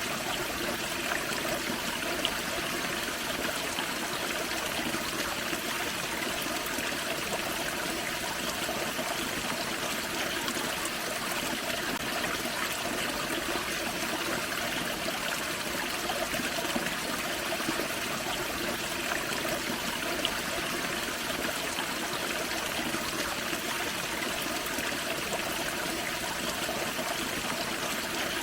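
Small forest-creek waterfall: water running and splashing over rocks, a steady, unbroken rush with trickling.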